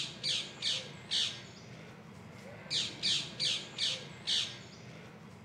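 A bird calling with short, harsh, high notes in two runs, four and then five, about three a second, with a pause of over a second between the runs.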